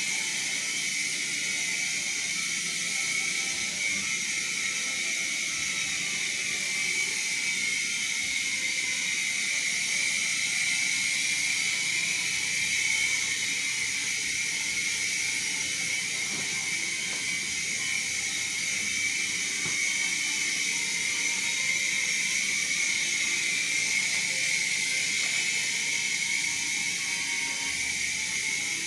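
Small toy indoor RC helicopter hovering and flying, its tiny electric motors and rotor blades making a steady, high-pitched whir.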